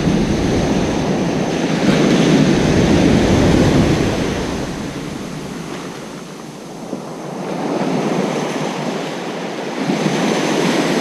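Ocean surf on a beach: waves breaking and washing up the sand in a steady rush, swelling loudest about two to four seconds in and again near the end.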